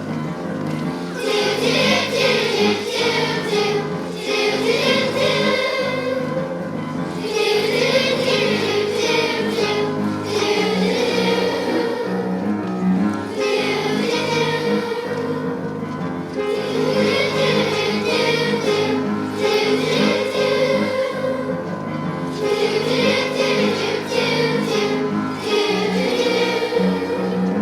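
Children's choir singing a song with accompaniment. A bright, high shimmer comes in and out every few seconds.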